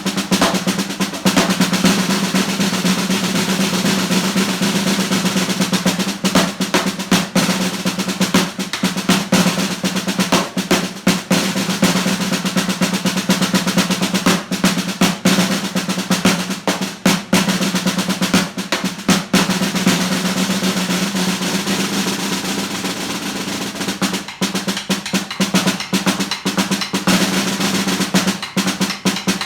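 Solo snare drum played with sticks: fast rolls broken by accented strokes, then a smoother, even roll near the end of the stretch before the accents return.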